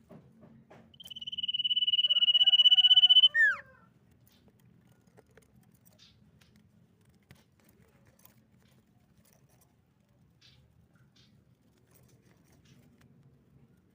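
Common iora giving one long, steady high whistle that swells in loudness for about two seconds and ends in a short falling note. A faint low hum and a few faint ticks follow.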